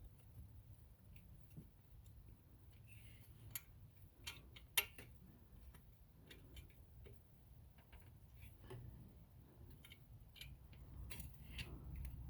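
Faint, scattered light clicks and taps of hand tools and small parts being handled while an EGR valve is fitted, with one sharper click about five seconds in, over a low steady hum.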